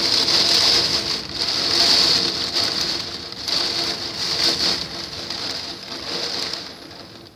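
Hurricane wind and rain, a dense hiss that swells and eases in gusts.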